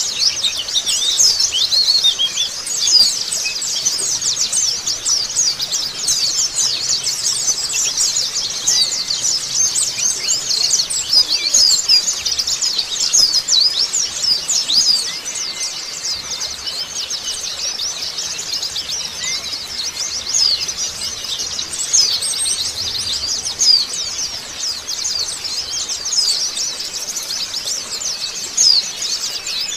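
A flock of white-eyes (pleci) chattering together: a dense, unbroken stream of rapid, high, overlapping twittering notes.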